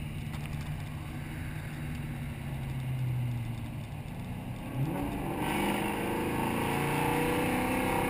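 Fox-body Mustang's small-block V8 running at steady light throttle, then accelerating hard from about five seconds in, its pitch climbing steadily as it pulls through the gear.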